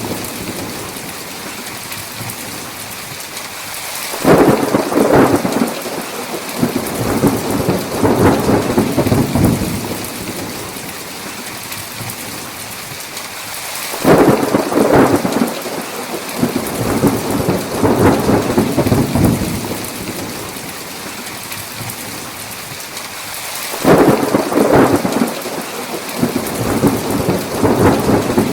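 Steady heavy rain with rolls of thunder that come in three times, each starting suddenly and rumbling on for several seconds before fading back into the rain.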